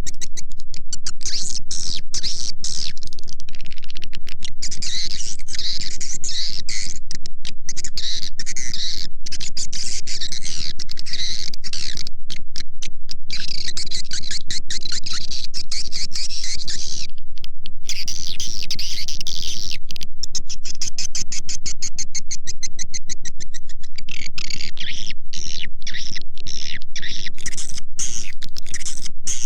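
A swiftlet call recording: edible-nest swiftlets chattering in a dense, continuous run of high twittering chirps, with many brief breaks. This is a lure call played to draw a swiftlet colony into a nesting house.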